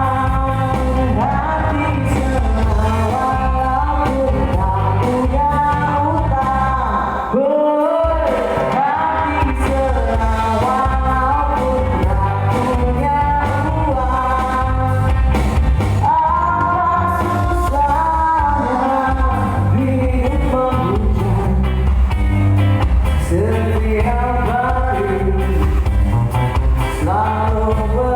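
A live band playing a song with a lead singer over a strong bass beat. The bass cuts out briefly about a quarter of the way in, then comes back.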